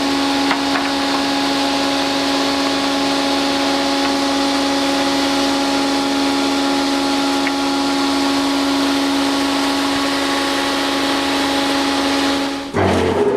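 Multi-rip edging saw running steadily with a constant hum. Near the end the sound breaks off abruptly and a rising whine begins.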